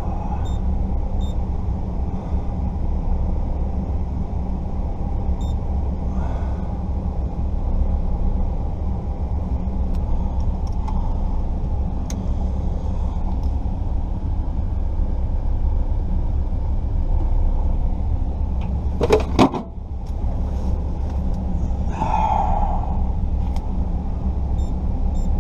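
Steady low rumble of an idling vehicle, with a short loud clatter about nineteen seconds in.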